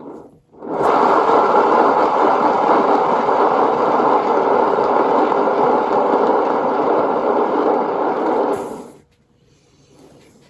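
A turntable spinning a freshly poured acrylic painting to spread the paint: a steady rolling rumble that starts just under a second in, runs for about eight seconds, then dies away.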